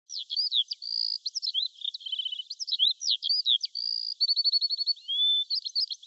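A songbird singing: a quick run of high whistled notes and sweeps, with fast trills at times, in short phrases with brief gaps between them.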